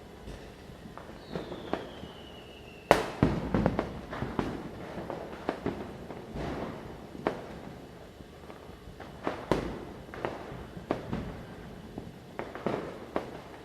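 Diwali firecrackers going off: a falling whistle ends in a loud bang about three seconds in, followed by a string of scattered bangs and cracks of varying loudness, near and far.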